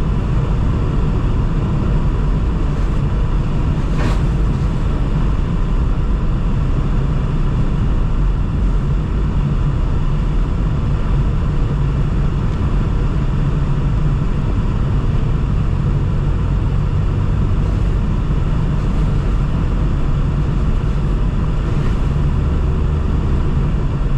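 Steady road and engine noise heard from inside a moving car, with a single sharp click about four seconds in.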